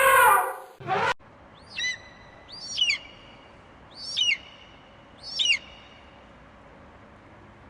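Four short, high animal calls, each a quick falling, wavering cry, spaced about a second apart. Before them, a louder drawn-out pitched call fades out within the first second.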